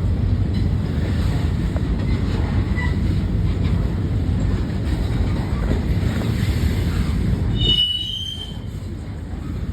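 Freight train rolling past with a steady low rumble, and a brief high-pitched wheel squeal from the curve about eight seconds in, as the rumble drops away.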